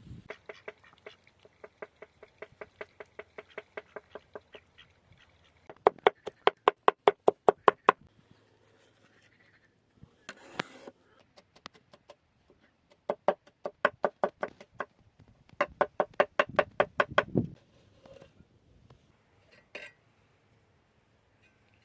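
Quick, even knocking in several runs of a few seconds each, about six strokes a second, with a slight ringing pitch. The loudest run comes about a quarter of the way in, and a few single knocks fall between the runs.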